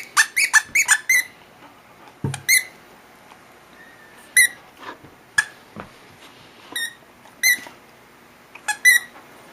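Dog's squeaky toy squeaking as it is chewed: a quick run of about five squeaks at the start, then single squeaks and pairs every second or so.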